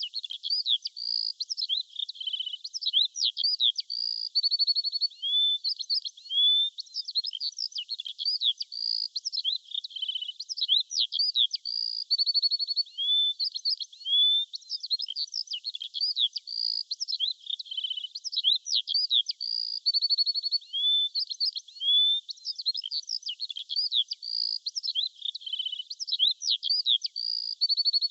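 Birds chirping and singing: quick chirps, short rising whistles and a brief buzzy trill, all high-pitched with nothing low underneath. The same few seconds of song repeat about every eight seconds, a looped recording.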